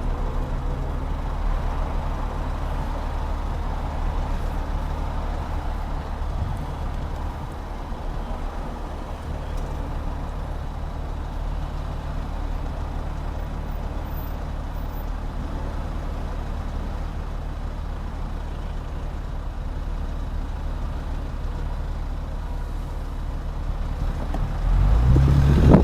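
BMW M4 Competition's twin-turbo straight-six idling steadily at low revs, then getting louder near the end as the revs rise.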